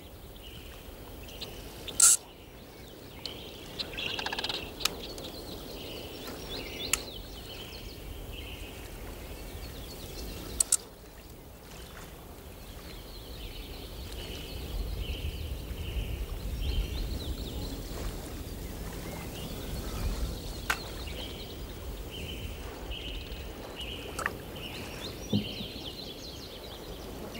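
Outdoor ambience: birds calling in short repeated phrases over a low rumble of wind and water, with a few sharp clicks.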